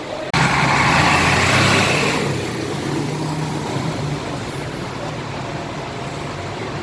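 Large bus engine running close by, starting abruptly a moment in, with a loud hissing rush over it for about the first two seconds before it settles into a steady running sound.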